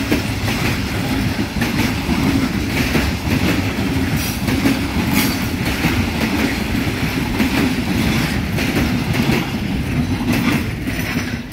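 Freight train wagons rolling past, their wheels clacking over the rail joints in a steady, loud rumble.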